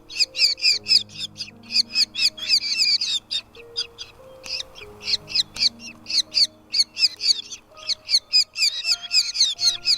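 Nestling birds calling for food in rapid, high chirps, several a second, thinning briefly about halfway through and then resuming. Background music with sustained low notes plays underneath.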